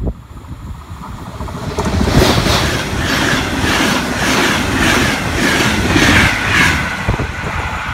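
Passenger train of Trenitalia coaches passing close on the near track: a rushing noise swells about two seconds in, with steady wheel clacks a little over twice a second, then eases near the end.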